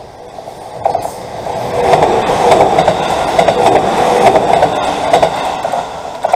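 A train running close by, getting louder from about a second in, with wheels clattering over the rails. It cuts off suddenly near the end.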